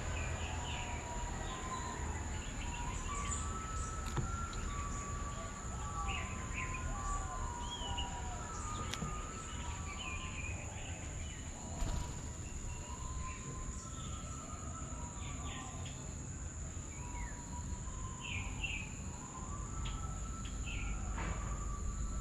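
Several birds chirping and calling in short, overlapping notes, over a steady low rumble and a continuous high-pitched tone.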